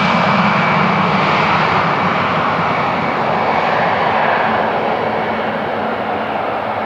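Boeing 777-300ER's GE90-115B turbofan engines running at high thrust: a loud, steady jet rush with a faint high whine that fades a few seconds in, the whole sound slowly easing off.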